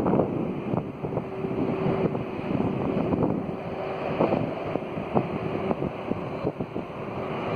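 Boeing 767-300 freighter's jet engines giving a low, uneven rumble with a faint steady hum, under heavy wind buffeting on the microphone.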